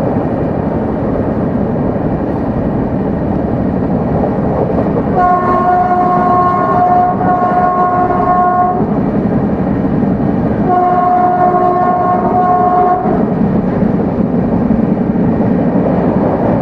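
Indian express train running at about 130 km/h, with a steady rumble from the wheels on the rails. The electric train horn sounds two long blasts, the first for about three and a half seconds and the second for just over two seconds.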